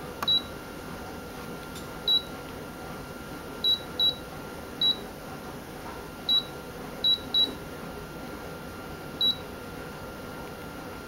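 Short, high single-tone beeps from a photocopier's keypad as buttons are pressed. There are about nine, at irregular intervals, over a faint steady machine hum.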